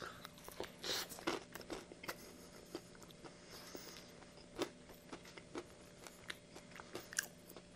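A bite into a breaded fried chicken sandwich, with a crunch about a second in, followed by chewing with scattered short crunches and wet clicks.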